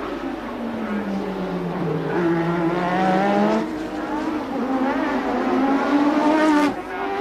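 A 1988 Formula One car's engine accelerating hard, its pitch climbing. It breaks and drops about three and a half seconds in, climbs again, and drops sharply near the end, as at an upshift or a lift off the throttle.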